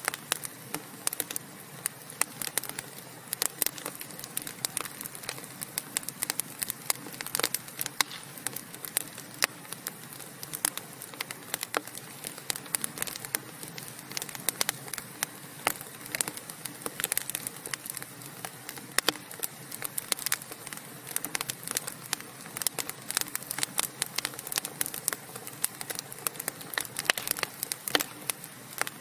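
Wood fire crackling: burning logs giving dense, irregular sharp pops and snaps over a steady soft hiss.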